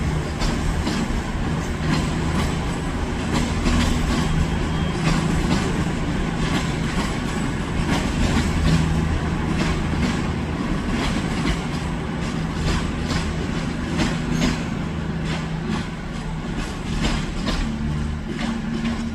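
A train passing close by, its wheels clicking irregularly over rail joints with a steady low hum underneath.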